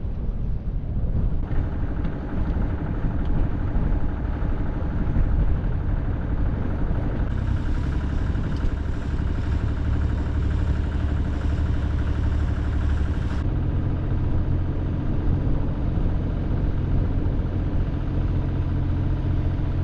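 A sailboat's engine running steadily while motoring. Its note changes abruptly a few times.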